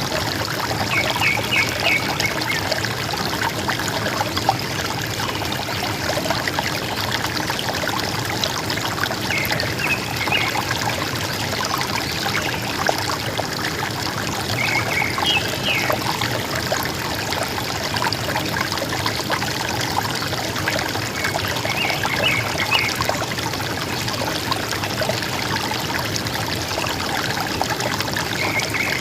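River water running and gurgling steadily, with a forest bird singing a short high phrase about every six or seven seconds.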